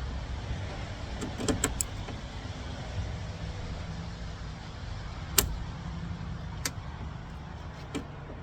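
A few sharp clicks and snips of hand work with scissors, the loudest about five seconds in, over a steady low rumble.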